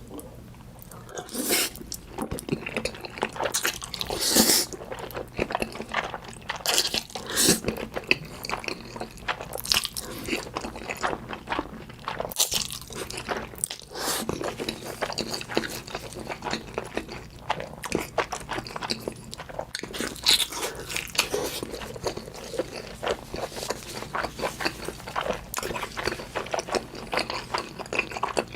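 Close-miked crunching and chewing of food, a continuous run of irregular crisp crackles and bites.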